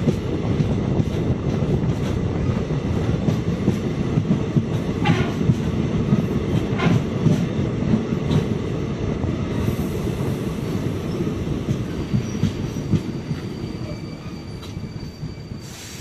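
DEMU train running at speed, heard from the open door of a coach: wheels rumbling on the rails with the clack of rail joints and points, getting quieter near the end.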